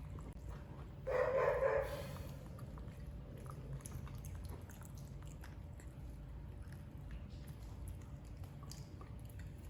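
A single short animal cry lasting just under a second, about a second in, over a low background with faint small clicks.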